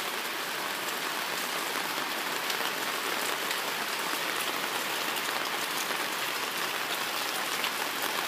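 Rainstorm downpour falling steadily: an even hiss with scattered drop ticks.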